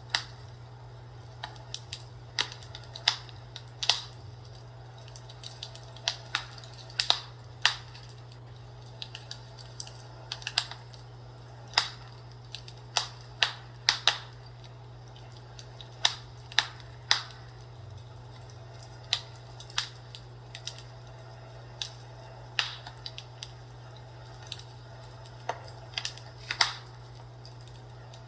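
Fireplace crackling: irregular sharp pops and snaps, about one or two a second, over a steady low hum.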